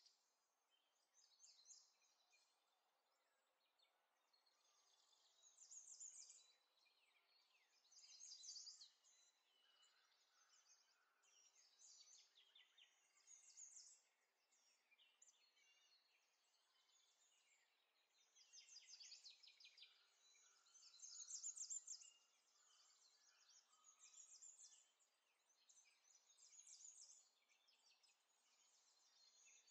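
Faint birdsong: high chirps and trills in short phrases every couple of seconds.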